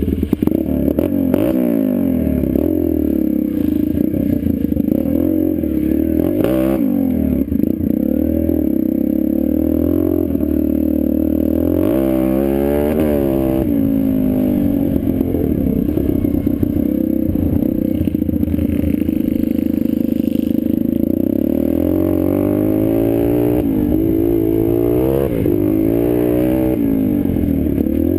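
Pit bike engine running hard as the bike is ridden, its pitch repeatedly rising and falling with throttle and gear changes.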